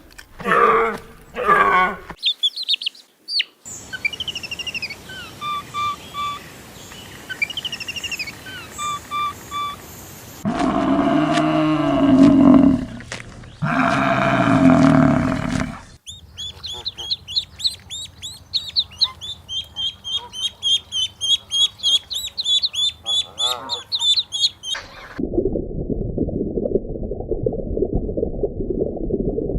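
A run of different animal calls joined by abrupt cuts. First come short grunts, then high bird chirps. Long, loud calls with several tones follow about ten seconds in, then a fast series of high chirps, and a low rumbling sound near the end.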